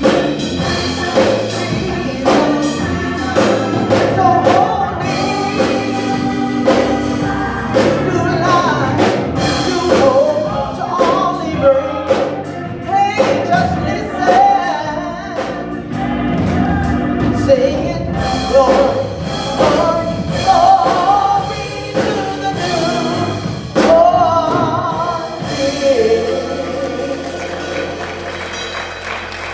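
Gospel song sung over instrumental backing, dying down over the last few seconds.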